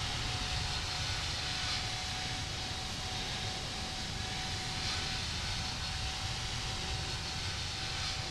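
Airbus A330neo's Rolls-Royce Trent 7000 jet engines running steadily, a low rumble and rushing noise with a faint steady whine.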